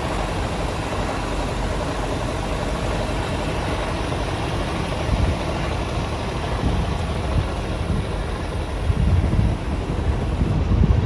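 Scania P230 tanker truck's diesel engine idling with a steady rumble, with louder low surges about halfway through and near the end.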